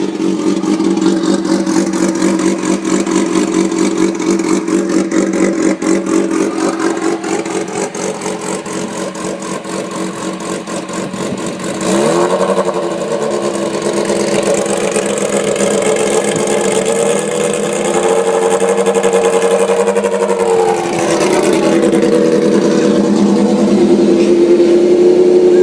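2006 Kawasaki Ninja ZX-6R inline-four engine running with its exhaust removed, on open headers. It idles steadily, steps up in pitch about halfway through, then dips and settles higher and louder near the end.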